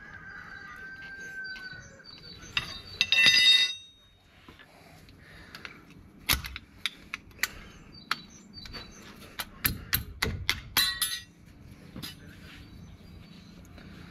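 Steel drum-brake hardware being handled and taken apart, metal on metal. A loud ringing clink comes about three seconds in, followed by a run of sharp metallic clicks and knocks.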